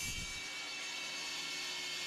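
A power tool runs steadily with a constant whine as it cuts moose antler into handle scales. A brief low thud comes right at the start.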